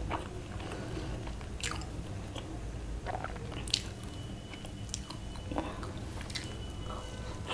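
Close-miked chewing of soft, spongy dhokla, with a few scattered wet mouth clicks.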